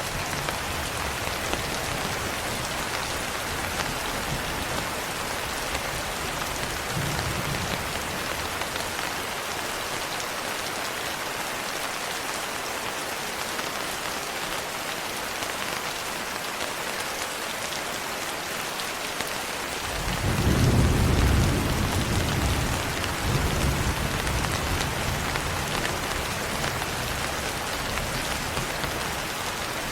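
Steady rain falling, with low thunder rumbling underneath; about two-thirds of the way through, a louder roll of thunder swells up and then slowly dies away.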